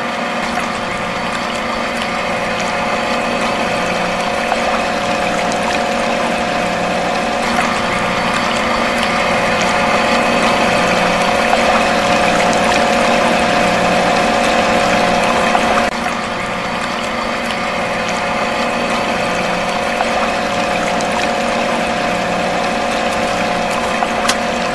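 Small electric water pump in a miniature model running with a steady hum, with water pouring from its pipe into a toy tanker's tank.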